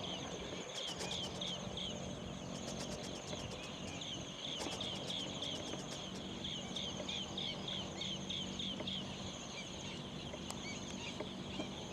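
Dusk nature ambience: runs of short, high, falling peeping calls, about three or four a second with pauses between the runs, over a steady high insect trill.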